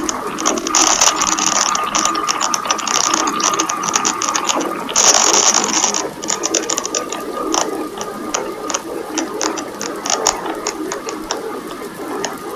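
Mechanical ratcheting and clicking, dense and rapid at first and thinning to scattered clicks after about six seconds, with a burst of hiss about five seconds in.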